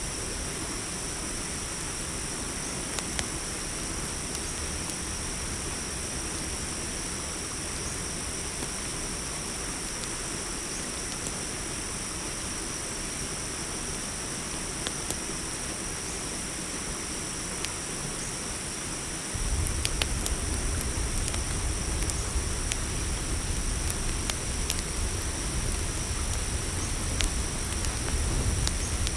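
Crickets trilling steadily in a high, unbroken chorus over the crackle of a campfire, with scattered sharp pops. About two-thirds of the way through a low rumble suddenly grows louder and the crackles come more often.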